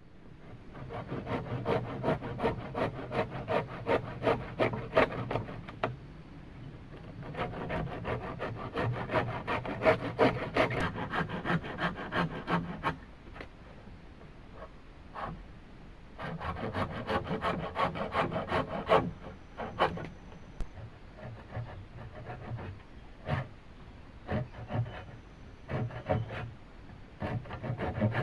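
A hand tool working bamboo in quick, repeated rasping strokes. The strokes come in long bouts, with pauses between them and shorter bursts near the end.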